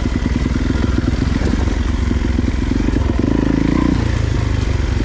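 Dirt bike running along a trail, its low pulsing steady, with a brief rise a little after three seconds in.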